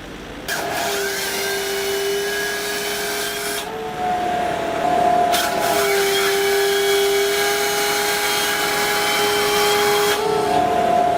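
A power saw running at high speed while cutting wood: a steady high whine over harsh cutting noise, starting about half a second in and breaking off briefly twice.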